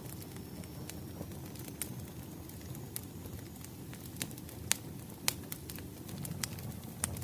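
Wood fire crackling: a steady low rumble of burning firewood with sharp pops scattered irregularly throughout, the loudest a little under five seconds in and again just after.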